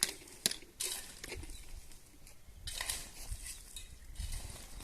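Metal kitchenware clinking: a few sharp clinks in the first second, followed by a stretch of scraping and rustling.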